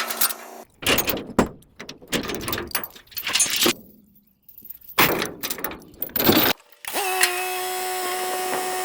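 Tractor being moved, with choppy rattling and clanking broken by abrupt cuts. From about seven seconds in, a steady even whine holds.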